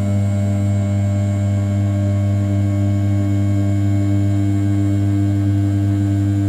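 The 500 W brushless spindle of a desktop CNC mill, running at 6000 rpm, rough-cuts the outside profile of an A7075 aluminium block. It gives a steady, even hum with a row of overtones.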